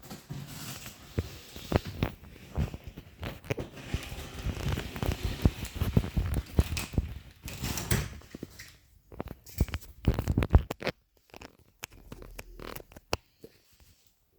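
Packaging being handled and pulled apart, with rustling, crinkling and tearing and many sharp knocks, busiest for most of the stretch and thinning to a few scattered clicks near the end.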